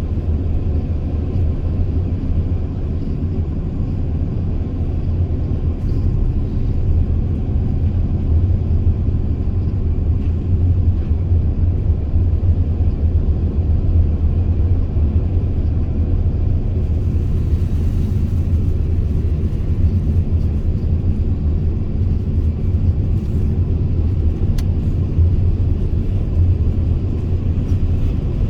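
Mercedes Sprinter V6 van driving at a steady pace, its engine and road noise making a constant low drone.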